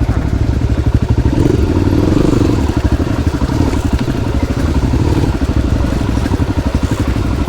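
Motorcycle engine running at low revs with a rapid, even firing beat, swelling briefly a couple of seconds in.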